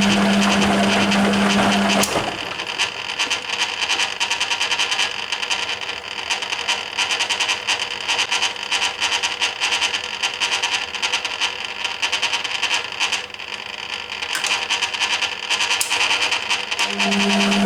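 1980 Hoover Keymatic A3112 washing machine in its rinse cycle, the load and water churning in the stainless steel drum. A steady hum stops about two seconds in and comes back near the end.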